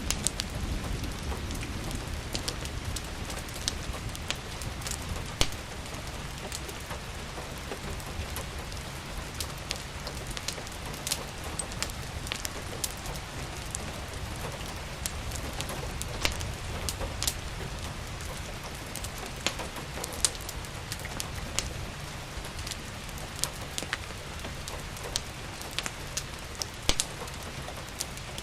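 Steady rain falling, with sharp crackles and pops from a wood fire scattered through it and a low rumble underneath.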